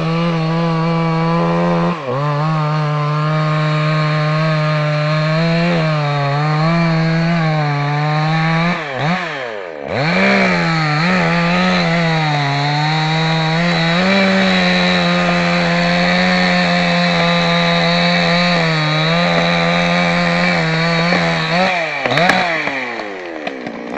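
Chainsaw running at high revs while cutting wood. Its pitch sags and recovers about nine seconds in, then falls and wavers near the end as the revs drop.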